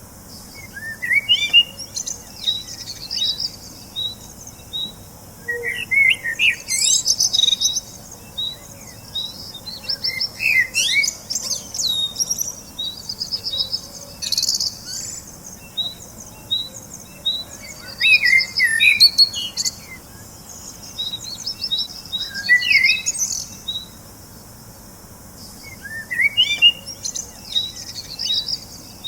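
Small birds chirping and trilling: quick rising chirps, rapid high trills and a string of short repeated notes, coming in bursts with brief lulls between them.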